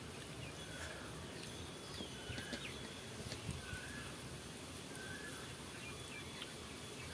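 A bird repeating a short call about once a second against steady outdoor background noise, with a few faint clicks from eating by hand off steel plates.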